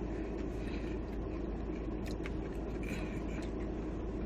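Steady low background hum, with a few faint crunches of food being chewed about two to three seconds in.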